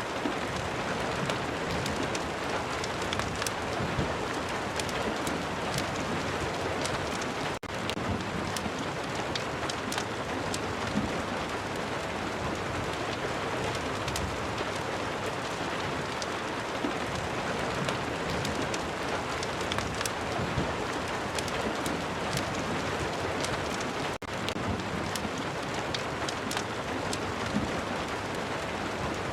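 Steady, heavy rain falling on a surface, with many small sharp ticks scattered through it. It cuts out for a split second twice, once a quarter of the way in and again near the end.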